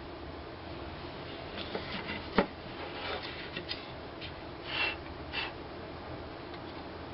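A few light knocks and ticks of wood being handled, one sharp knock the loudest, then two short rubbing scrapes, over a steady low workshop hum.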